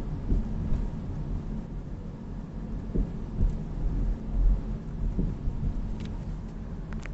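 BMW 3 Series (G20) on the move: a steady low road rumble with several dull knocks at irregular intervals. The knocking is the car's known chronic noise, which the owner traces to the steering gear box.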